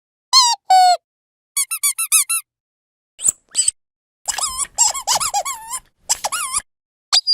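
A dog's squeaky toy being squeezed over and over, each squeak bending up and then down in pitch. The squeaks come in groups: two single squeaks, then a quick run of about six, two sharp squeaks, a long flurry of rapid squeezing, and one last squeak near the end.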